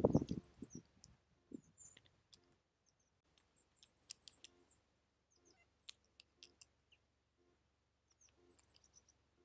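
Small songbirds at a feeder: scattered short, high call notes mixed with sharp clicks and taps of feeding on seeds, with a louder low rustle or thud right at the start.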